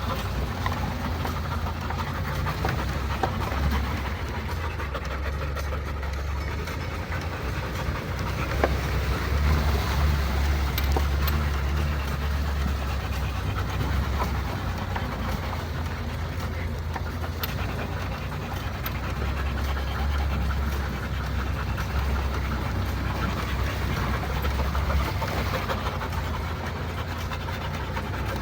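A vehicle's engine running as a steady low drone while driving slowly on a forest track, with a dog panting close by.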